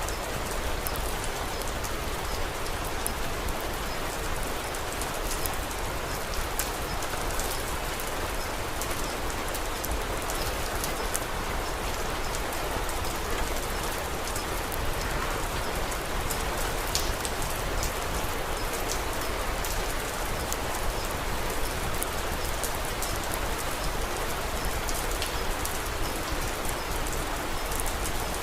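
Steady rain falling, an even hiss with many small sharp ticks of drops scattered through it, mixed with the light crackle of a wood fire.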